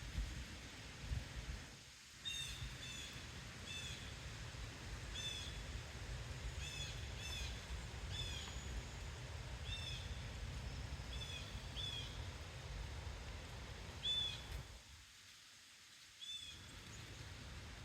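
A songbird giving short, sharp chip calls, about a dozen spaced irregularly roughly once a second, over a low rumble of wind on the microphone that eases off briefly near the end.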